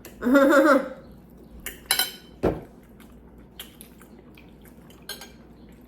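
Scattered clinks and taps of cutlery and dishes at a meal, with a low thump about two and a half seconds in. A short vocal sound comes right at the start.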